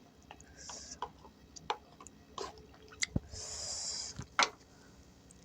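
Close-up eating sounds from a mukbang of vegetables in peanut sauce: wet chewing and scattered mouth clicks, with a short soft hiss a little past three seconds in.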